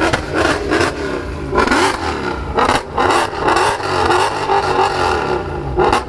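Car engine being revved while parked, its pitch rising and falling several times.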